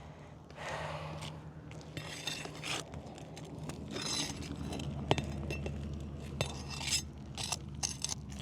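Metal pry bar scraping under asphalt shingles and clinking against roofing nails as they are worked loose, in scattered short clicks and scrapes, with one sharp click about halfway through, over a steady low hum.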